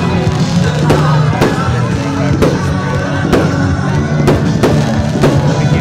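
Aerial fireworks going off in an irregular series of sharp bangs, several within a few seconds, over music.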